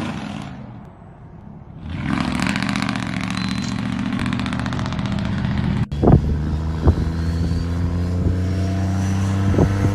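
Truck engine running. It dips low about a second in, then comes back and holds a steady, slightly rising note, with a few short sharp pops in the second half.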